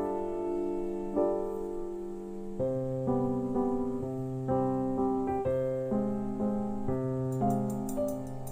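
Background piano music: single notes and chords played one after another at a gentle, even pace.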